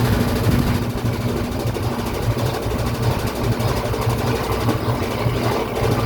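Brastemp Ative 11 kg (BWL11) washing machine in its intermediate spin, the motor and drum running with a steady hum.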